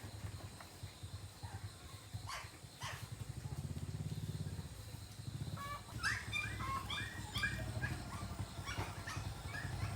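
A low, rapidly pulsing motor hum runs throughout, with a couple of sharp clicks early on. About six seconds in comes a run of short, high animal calls, several a second for about two seconds.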